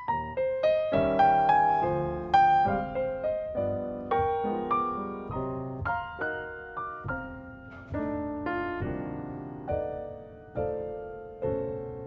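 Jazz piano solo: a run of struck chords and single-note lines, each note dying away after it is played.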